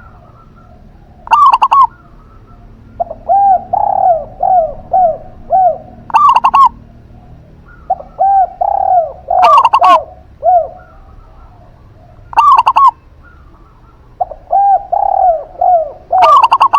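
Zebra dove and spotted dove cooing in turns. A short, very loud double-note call comes five times, about every three to four seconds, and between these come runs of four or five softer, lower coos that rise and fall.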